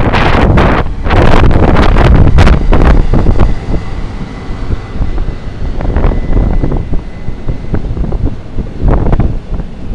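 Bentheimer Eisenbahn diesel locomotive D23 pulling a military train away, its low engine rumble mixed with heavy wind buffeting on the microphone. The sound is loudest for the first few seconds, then drops back as the train moves off.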